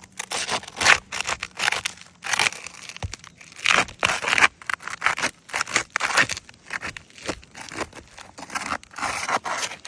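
Asphalt roof shingles being pried up and separated: repeated irregular scraping and tearing as the sealant bond between the shingles is broken and the shingle material tears.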